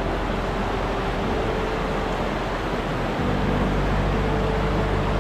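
Steady rush of a fast mountain stream, Stanley Ghyll, running through its rocky gorge, an even wash of water noise with a faint steady hum underneath.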